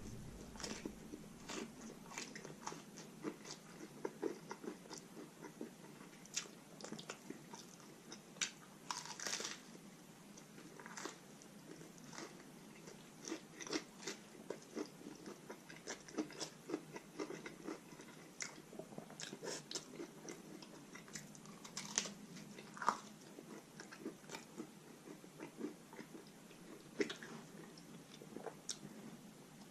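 Close-miked eating: a person chewing and biting food with many small, irregular crunches and wet mouth sounds, typical of chicken tacos in crunchy shells.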